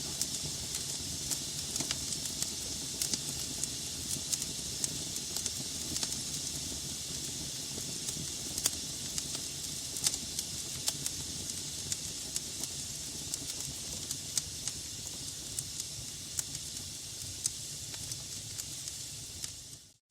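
Wood fire burning in a fireplace: a steady hiss with frequent sharp crackles and pops from the burning logs. The sound fades out suddenly at the very end.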